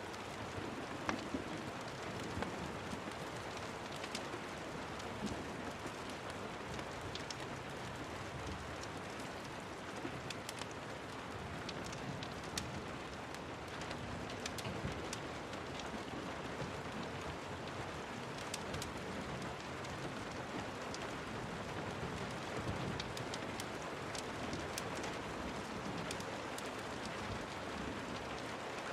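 Steady rain falling, with scattered sharp ticks and pops.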